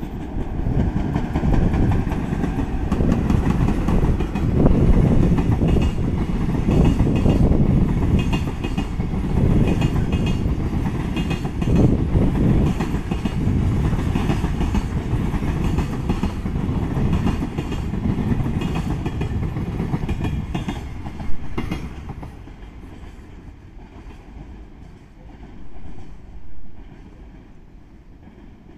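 A JR Freight container train, hauled by an EF66 electric locomotive, passes at speed. There is a loud rumble and a rhythmic clickety-clack of wheels over rail joints, with one sharp clank about twenty-one seconds in. The sound then fades as the train recedes.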